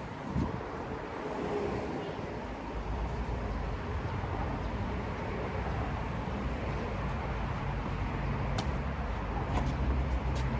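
A vehicle engine running steadily nearby: a low hum that comes in a couple of seconds in over a noisy outdoor background, with a few sharp knocks near the end.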